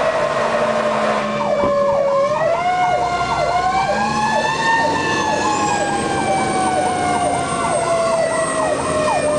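Fire engine sirens sounding together. A slow wail rises for about the first five seconds and then sinks, while a fast yelp repeats about three times a second over it.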